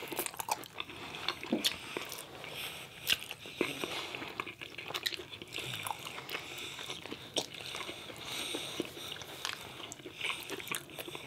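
A person biting and chewing food, with many irregular wet mouth clicks and small crunches.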